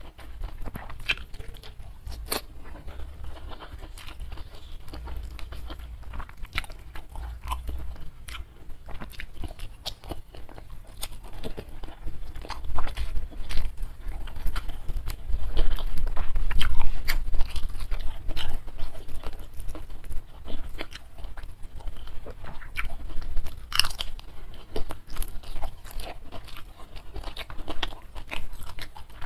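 Close-miked mouth sounds of eating crispy fried catfish with rice by hand: steady chewing with frequent sharp crunches and wet clicks, louder for a few seconds around the middle.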